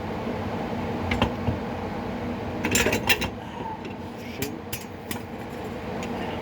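Scattered metal clinks and taps from tools and the PTO clutch being handled and worked into place on the mower, with a cluster of them about halfway through, over a steady low hum.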